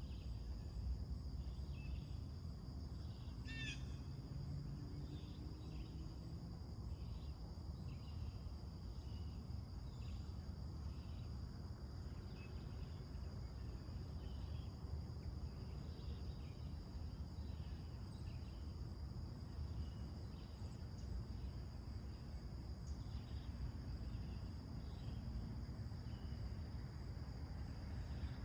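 Summer morning soundscape: a steady high-pitched insect chorus of crickets runs under faint, regularly repeating bird chirps. One sharper bird call comes about three and a half seconds in, over a steady low rumble.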